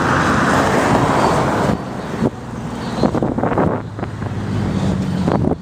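Street traffic: motor vehicles running close by, with wind on the microphone. The loud vehicle noise cuts off suddenly a little under two seconds in, and a steady engine drone from passing traffic follows near the end.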